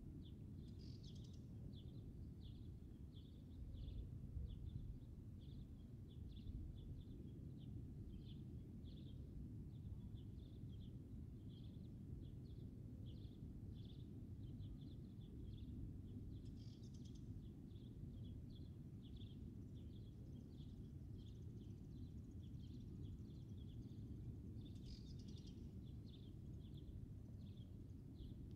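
Faint outdoor ambience: a steady low rumble under a small bird chirping repeatedly, short high chirps about two a second, with a higher call now and then.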